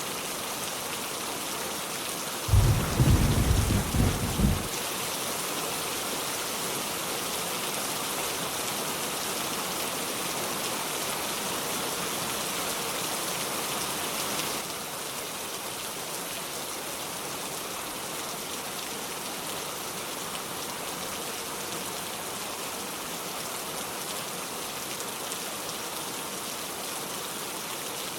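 Steady heavy rain with a burst of low thunder rumble a few seconds in that cuts off suddenly after about two seconds. The rain eases slightly about halfway through.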